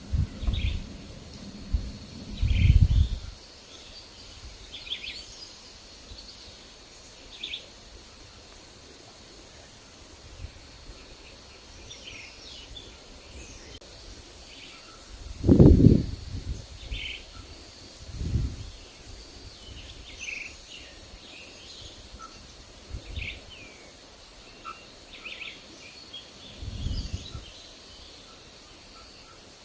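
Forest birds giving short, scattered chirps, over a faint steady high hiss. Gusts of wind rumble on the microphone now and then, the loudest about halfway through.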